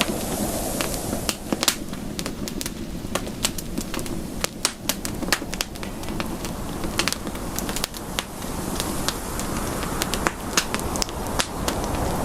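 Campfire crackling: irregular sharp pops and snaps of burning wood over a low, steady rush of flames.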